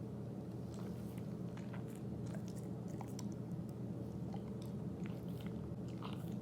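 Siberian husky gnawing on a chew: irregular crunches and sharp clicks of teeth on the chew, starting about a second in.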